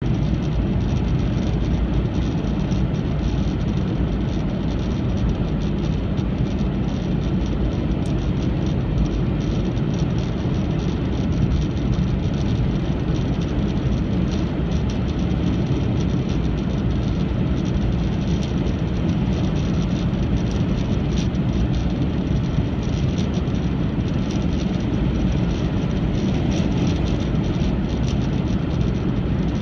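Steady road and wind noise inside a moving 2001 Honda Insight, with a few faint ticks scattered through it. The recording is meant to capture an unidentified noise coming from the windshield.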